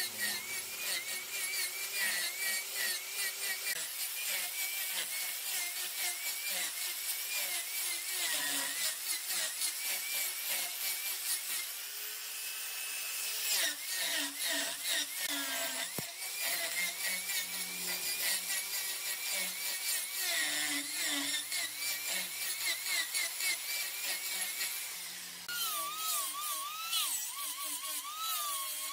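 Mahogany turning on a woodworking lathe: the cutting tool scrapes against the spinning wood with a continuous rasping hiss and a wavering high whine, which drops lower in pitch near the end.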